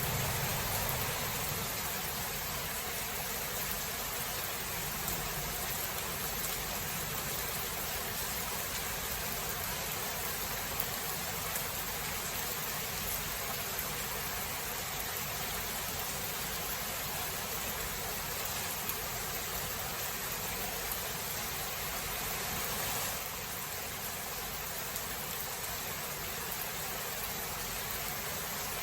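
Steady, even hiss of a heavy thunderstorm downpour. The tail of a low thunder rumble dies away in the first second or so, and the rain eases very slightly about two-thirds of the way in.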